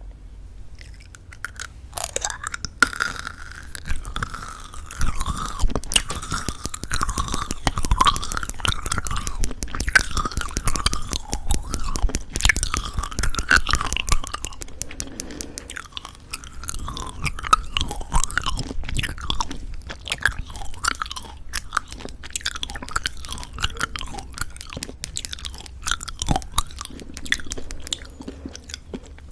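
Chewing and crunching of chewy jelly candy with a crunchy sugar coating: dense, irregular crackles starting about a second in.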